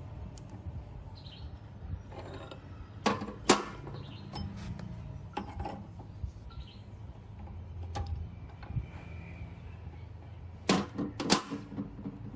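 Workshop handling sounds: a handful of sharp knocks and clicks over a low steady hum, with two quick pairs, one about three seconds in and one near the end.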